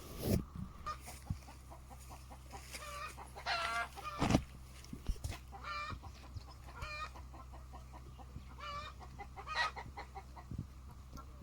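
Chickens clucking: a run of short pitched calls repeating every second or so. Two sharp knocks cut in, the louder one about four seconds in.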